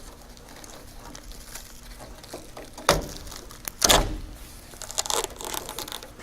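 An old fabric-lined window glass run channel being pulled down and torn free of the silicone sealing it to the truck's door frame. It makes crackling, tearing and scraping sounds, with two sharp snaps about three and four seconds in.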